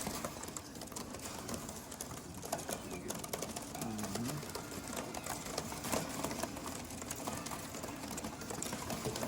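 Tippler pigeons in the loft: a steady run of rapid, fine clicking and scratching, with one low pigeon coo that dips and rises again about four seconds in.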